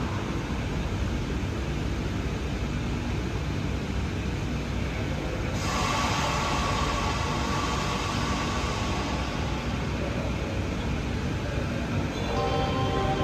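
A train running in a station with a steady low rumble; about halfway through, a hiss sets in suddenly.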